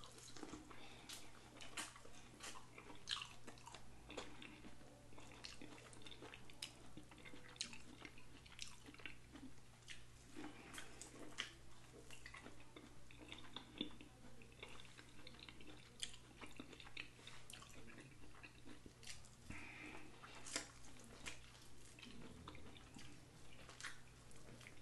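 Faint close-up chewing, lip smacking and sucking as meat is stripped off sauced bone-in chicken wings, with many short wet smacks and clicks at an uneven pace.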